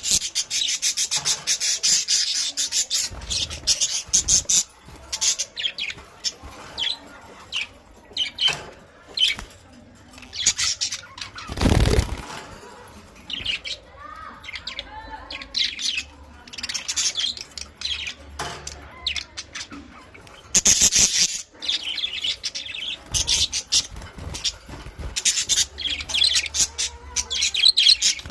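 A colony of budgerigars chirping and chattering in repeated bursts, with a brief loud rustle about twelve seconds in.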